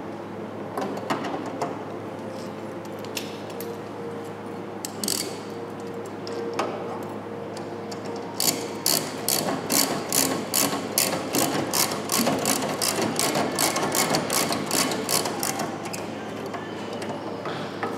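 A hand ratchet clicking: a few scattered clicks and knocks, then a steady run of ratcheting clicks, about three a second, for around seven seconds.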